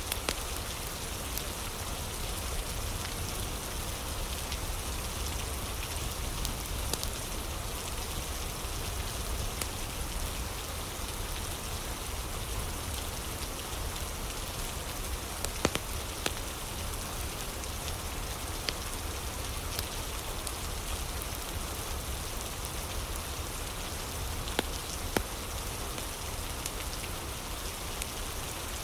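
Steady rain falling, with a few sharp crackles and pops from a wood fire, the loudest about halfway through.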